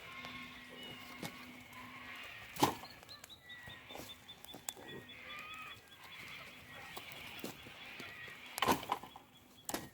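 Birds calling, with many short chirps and a long run of rapid high ticking notes. Three sharp knocks stand out: one about two and a half seconds in and two near the end.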